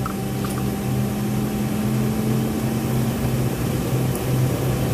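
Airliner cabin noise: a steady rush of engines and ventilation with low droning hums, one of which drops out about three-quarters of the way through.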